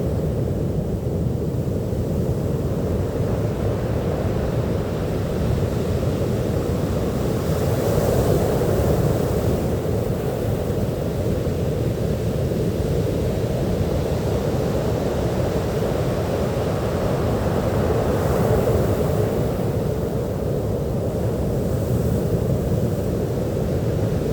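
Sea waves washing onto a beach as a steady rush, swelling louder twice, about a third of the way in and again about three quarters in.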